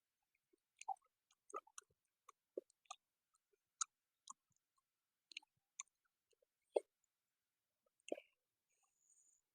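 A person chewing with the mouth close to the microphone: scattered short wet clicks and smacks, about a dozen, the loudest near seven seconds in.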